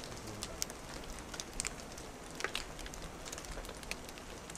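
Light rain falling: a steady hiss with scattered, irregular drops ticking.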